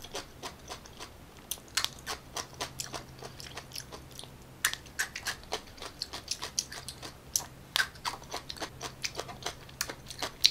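Close-up crunchy chewing of a slice of yellow pickled daikon radish: a quick, uneven run of sharp, crisp crunches and mouth clicks.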